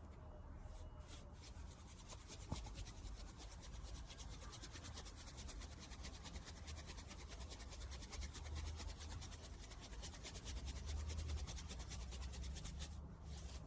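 Faint rubbing and scratching noise over a low rumble, with a small click about two and a half seconds in.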